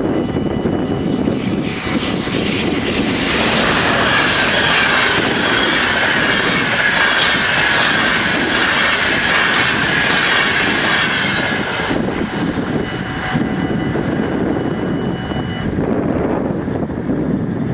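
Passenger train passing over a level crossing at speed, its wheels rumbling and clattering on the rails. The noise is loudest from about three seconds in until about twelve seconds, then dies away. The crossing's warning bells ring steadily, heard plainly before the train comes and again after it has gone.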